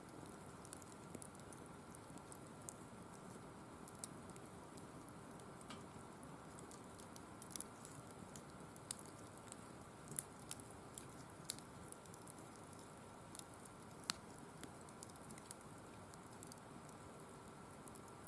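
Firewood burning in a wire-mesh fire pit: faint, irregular crackles and pops, a few sharper ones standing out.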